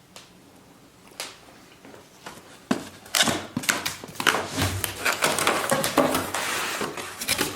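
A cardboard box being opened and its packaging handled: a faint click or two, then from about three seconds in a busy run of sharp clicks, scrapes and rustling.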